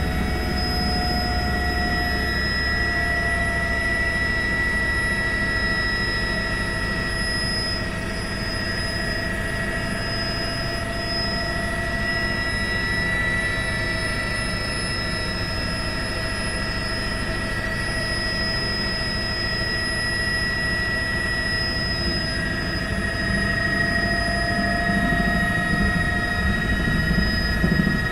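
Helicopter running steadily, a constant high-pitched whine over a low, even drone.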